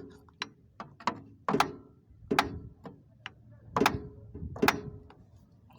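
A hammer tapping the starter motor of a Suzuki F6A/K6A engine: about eight sharp metallic knocks at uneven spacing, each with a short ring. The tapping is a trick to free a starter that gives no crank at all even though the battery is good.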